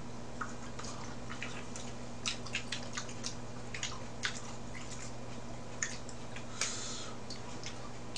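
Someone eating raw mullet sashimi: scattered short wet chewing smacks and clicks, over a steady low hum.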